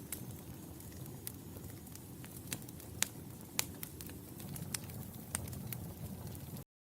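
Wood fire in a fireplace crackling: a steady low rumble of flames with irregular sharp pops and snaps. The sound cuts out for an instant near the end.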